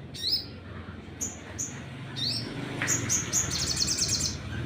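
Sunbird calling: a string of sharp, high chirps, then a fast, high trill a little before the end, over a steady low background hum.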